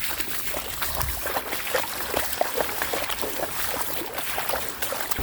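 Rain falling: a steady hiss with many irregular drop ticks close by.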